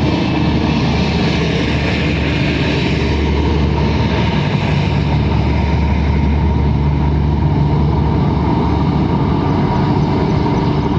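Express train running, a steady loud rumble with a low engine drone underneath.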